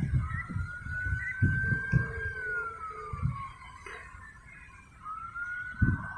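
Emergency-vehicle siren wailing: one tone slowly rising, holding and falling in pitch, then rising again about five seconds in. Low rumbling from wind or handling on the microphone lies under it.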